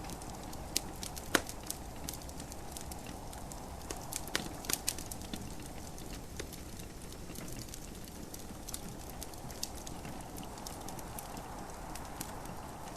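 Wood fire in a fireplace crackling, with irregular sharp pops and snaps, the loudest about a second and a half in and a cluster around four to five seconds in, over a steady soft rush of gentle rain.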